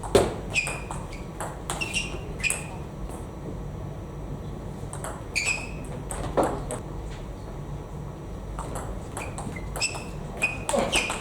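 Table tennis ball struck by bats and bouncing on the table: quick series of sharp clicks with a short ringing ping, coming in bursts with pauses between.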